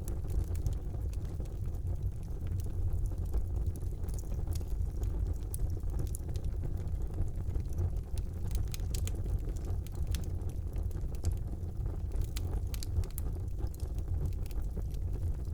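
Fire burning in a fireplace: a steady low rumble of the flames with scattered sharp crackles and pops.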